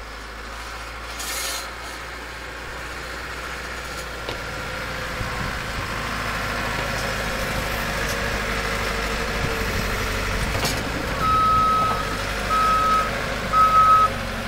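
A truck's engine grows steadily louder, then its reversing beeper starts about three quarters of the way in, one high beep roughly once a second.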